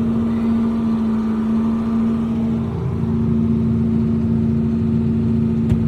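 Engine of ranch feeding machinery running steadily at an even pitch, with a single sharp click near the end.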